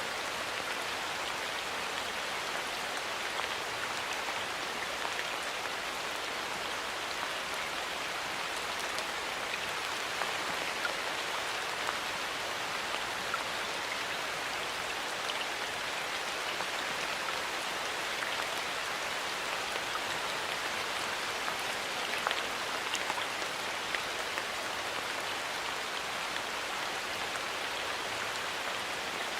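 Steady light rain falling in a forest: an even hiss of water, sprinkled with many small drop ticks.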